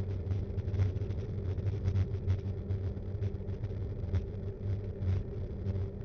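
Riding noise from a Btwin Rockrider 5.1 mountain bike, picked up through the action cam mounted on it: a steady low rumble from the tyres rolling on the road, with frequent small rattles and knocks from the bike and the camera mount.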